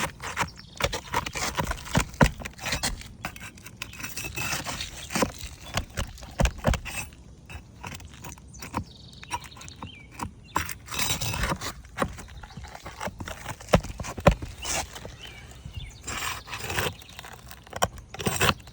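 A metal shingle scraper is worked under a roof shingle to break its seal and reach the nail. Irregular scraping is broken by many sharp knocks and clicks.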